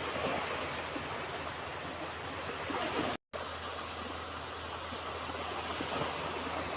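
Ocean waves washing onto a beach in a steady, continuous rush of surf. The sound cuts out completely for a split second about three seconds in, then resumes.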